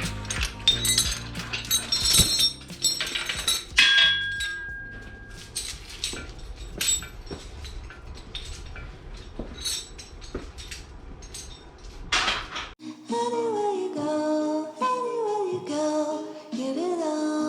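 Irregular metallic clinks, knocks and clatter, like tools and small metal parts being handled, with one short ringing tone a few seconds in. About thirteen seconds in, this gives way to background music with a gliding melody.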